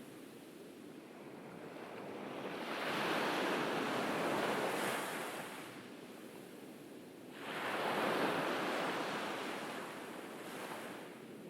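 Gentle ocean waves breaking and washing up a beach: a soft hiss that swells twice, about three seconds in and again about eight seconds in, then falls back between surges.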